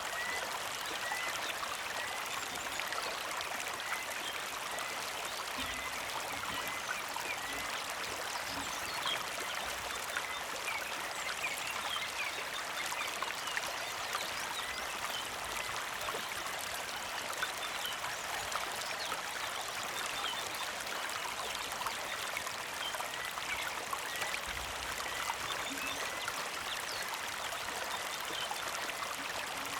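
Small creek flowing and trickling steadily over stones. A bird repeats a short chirp about once a second over it.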